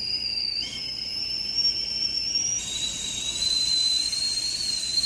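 Willow & Everett stainless steel stovetop kettle whistling at the boil: one high-pitched squeal that steps up in pitch about a second in, then drops and holds. Steam escaping past the loose lid keeps the dual whistle from sounding harmonic.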